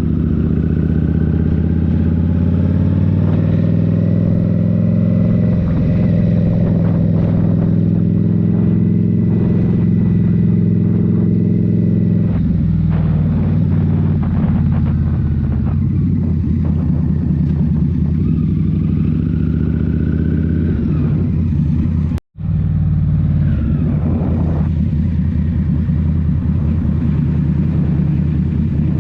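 Indian Scout Rogue's 69 cu-in (1133 cc) V-twin running through a Rinehart slip-on exhaust while riding, its pitch rising and falling with the throttle. The sound cuts out completely for a moment about 22 seconds in.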